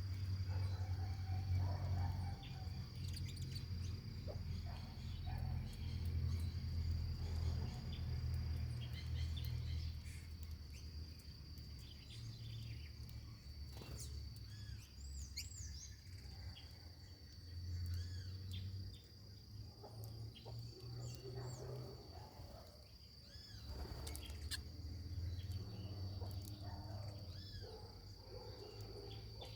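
Many short bird chirps and calls over a steady high-pitched insect drone, like a cricket or cicada, with a low rumble that swells and fades underneath.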